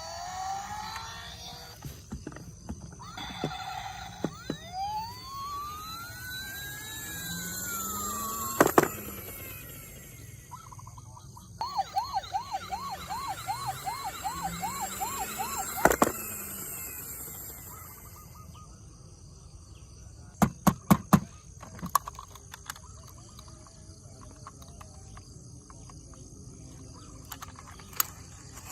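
Toy emergency-vehicle siren sounds. There is first a slow wail that rises and falls, then a fast warbling yelp of about two cycles a second. Sharp clicks and knocks come in between, with a cluster of loud clicks near the end.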